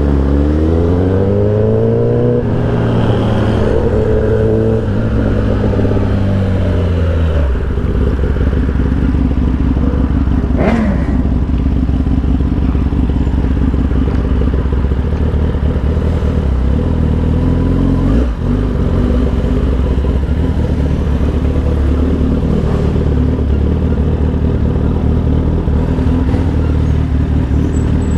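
Motorcycle engine running under way, the revs rising and falling through the gears for the first several seconds and then holding steady while cruising. A brief sharp whine-like sweep comes about eleven seconds in.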